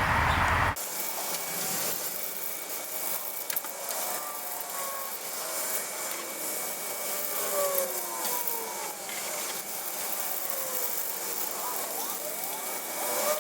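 Paintbrush rubbing and scraping over small wooden parts of a model bridge, with short squeaky slides in pitch as the strokes go on.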